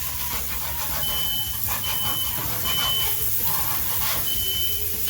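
Smoke alarm beeping in its three-beep pattern: three short high beeps, a pause, then three more, set off by smoke from burgers frying on the griddle. Underneath, the griddle sizzles steadily.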